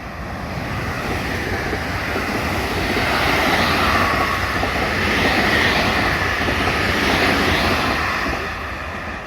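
JR Kobe Line train running past the platform, its rumble growing louder to a peak in the middle and fading near the end.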